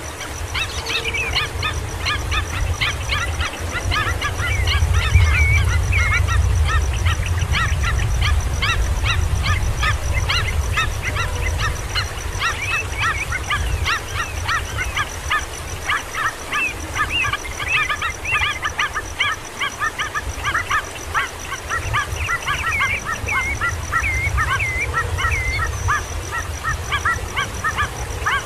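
Kingfisher chicks calling: a dense, continuous stream of short, high, squeaky chirps, several a second, over a low rumble.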